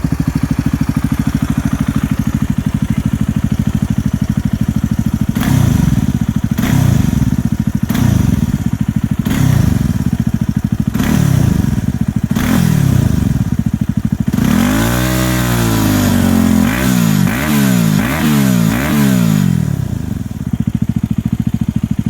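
Yamaha WR250X single-cylinder four-stroke engine breathing through a Yoshimura exhaust with its inner baffle (dB killer) fitted, idling and then revved: about six short throttle blips a second or so apart, one longer rev that rises and falls, four quick blips, then back to a steady idle near the end.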